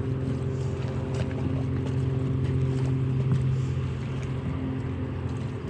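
Boat motor running at a steady pitch, a low even hum with overtones.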